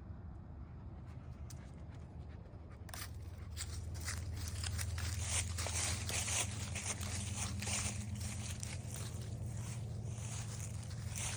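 Irregular crunching and rustling of footsteps on dry ground cover, starting about three seconds in, over a steady low hum.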